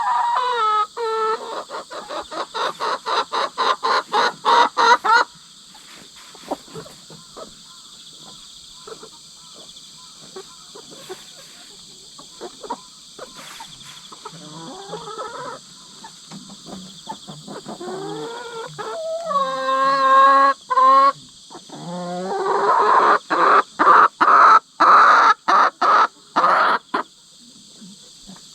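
Hens squawking in three loud runs of rapid, repeated calls: about four a second for the first five seconds, again briefly near the middle, and a long run near the end. These are the screams of newly merged hens in a pecking-order dispute. A steady chorus of crickets runs underneath.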